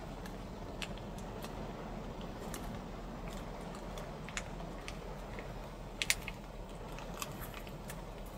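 Steady low rushing noise of wind and rain around a parked light truck, with scattered small clicks and taps, the loudest a quick pair about six seconds in.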